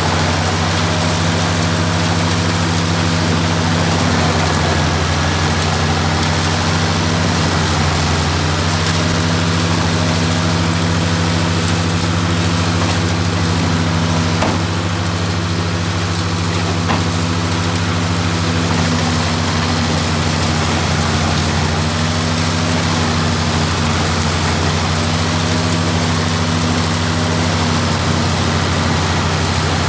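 Ford 8830 tractor's diesel engine running steadily at constant speed, driving the wood chipper: an even drone with a few faint knocks around the middle.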